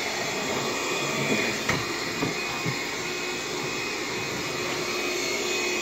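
Bissell PowerGlide cordless stick vacuum running steadily on low power over a hard floor, with a steady high-pitched whine that the owner takes to sound like a clog. A few faint ticks come about two seconds in.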